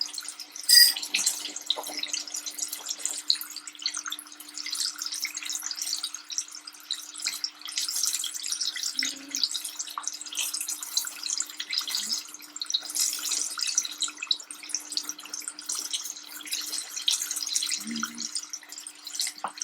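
Hot oil sizzling and crackling in a deep-frying pot, with a faint steady hum underneath and two soft knocks, one about midway and one near the end.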